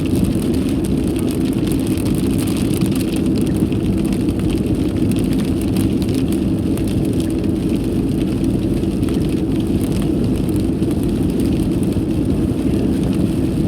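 Steady road and engine noise inside a moving car's cabin, a constant low rumble with a fainter hiss above it.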